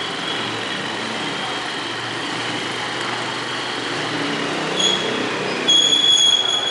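Road vehicle running, with a steady rush of engine and road noise. A high-pitched tone sounds briefly about five seconds in and again, longer and louder, near the end.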